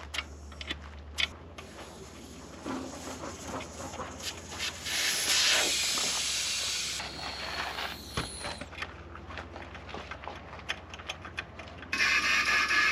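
Compressed air hissing through an air chuck into a new truck-style air suspension bag at its Schrader valve, a short fill of a few seconds that cuts off sharply, with light clicks of handling. Near the end a loud, steady mechanical whir starts.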